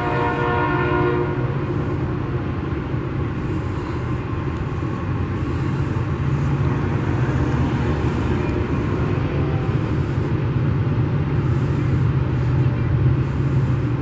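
Union Pacific locomotive horn cuts off about a second in, followed by the train rumbling steadily past. A soft hiss recurs about every two seconds.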